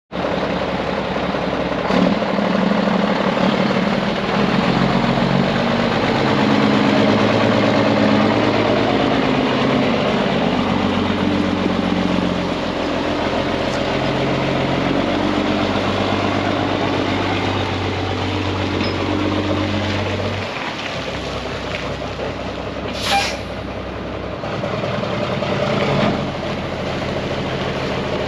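2004 Mack RD690S roll-off truck's diesel engine running, its pitch stepping up and down every few seconds. Late on there is a short burst of air hiss, then a single knock.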